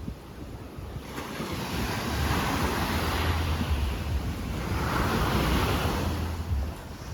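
Rough sea surf breaking and washing up the shore in two swells, with wind buffeting the microphone underneath.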